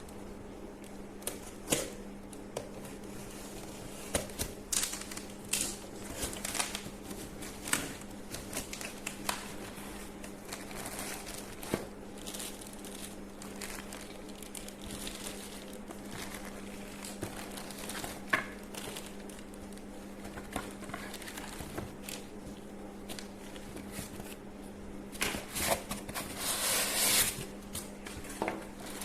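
Plastic packaging crinkling and being handled, with scattered light clicks and knocks and a longer, louder rustle near the end, over a steady low hum.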